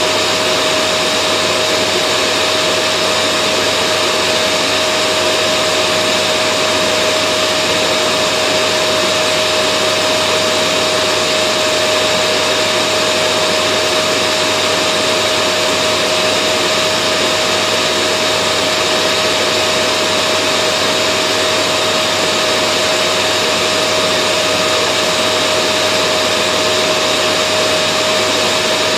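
Vacuum cleaner running steadily: an even rushing noise with a constant whine from its motor.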